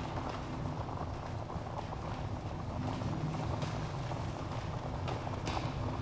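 Wood fire crackling in a fireplace: a dense run of small crackles over a low rumble of the flames, with a few sharper pops, one about three and a half seconds in and another near the end.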